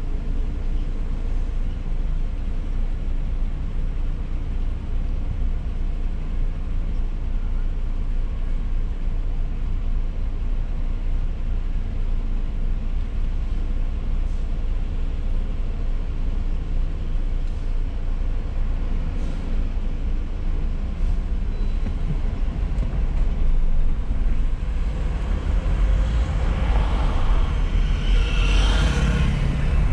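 Car engine idling at a standstill, heard from inside the cabin as a steady low rumble. Near the end the car pulls away and the engine and road noise grow louder.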